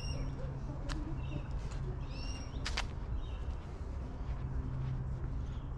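Birds calling: short, high, curved chirps repeating every second or so, with two sharp cracks about one and three seconds in, over a steady low rumble.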